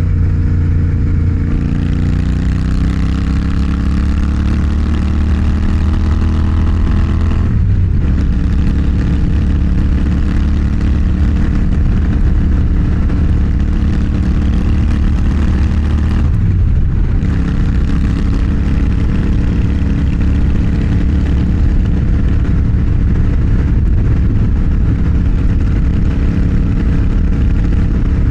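Motorcycle engine pulling through the gears: the revs climb for several seconds, drop briefly at a gear change about eight seconds in and again around seventeen seconds, then hold steady at cruising speed.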